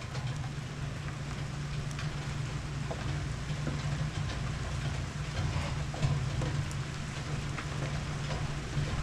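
Rain falling steadily during a monsoon thunderstorm, with scattered drip ticks over a steady low hum.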